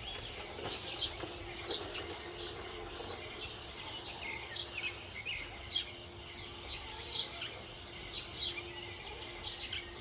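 Small birds chirping repeatedly, short quick calls coming every half second to a second, over a faint steady hum.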